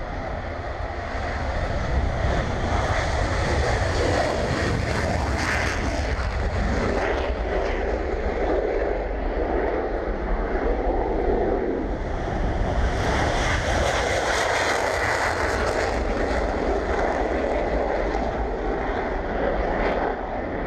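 Two Dassault Mirage 2000N jet fighters taking off, their SNECMA M53 turbofans at take-off power. The jet noise is loud and continuous and swells twice, about two seconds in and again about thirteen seconds in.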